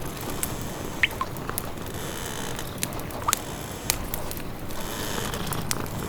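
Wood fire crackling in a fireplace: sharp pops every second or so, a few with short squeaky whistles, over a steady low purr and the patter of rain.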